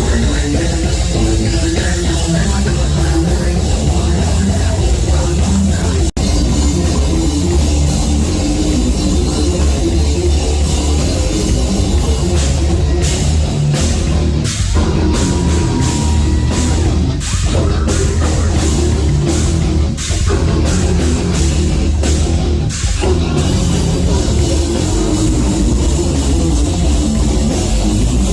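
Heavy metal band playing live, with distorted guitars and a pounding drum kit. In the middle stretch the band plays stop-start hits.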